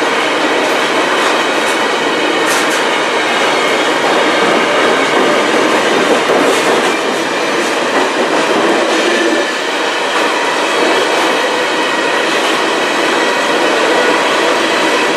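Freight train of covered hopper potash cars rolling past close by, a steady rumble and rattle of wheels on the rails with a few sharp clicks.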